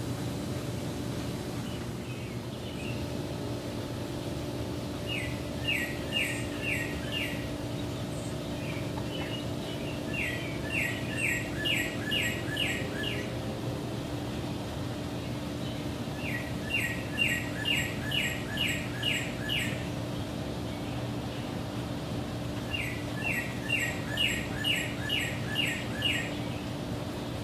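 A songbird singing four phrases of quick, evenly repeated notes, each phrase five to eight notes long, over a steady low hum.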